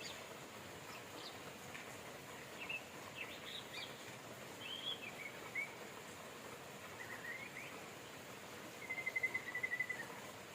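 Songbirds chirping over a steady hiss of rain, with short calls scattered through and a level trill near the end that is the loudest.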